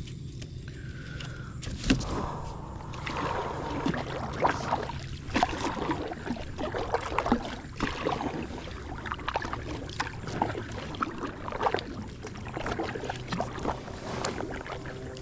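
Paddling a small inflatable packraft: irregular splashes and knocks of the paddle in the water and against the boat, over a steady low hum.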